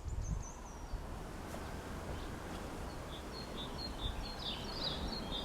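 Small birds chirping repeatedly over steady low background noise, the chirps busiest near the end.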